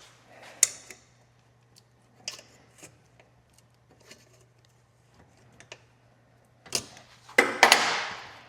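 Scattered small clicks and taps of hand tools and fittings as a radiator hose is worked off a Kawasaki ZX-6R, with a louder clatter near the end.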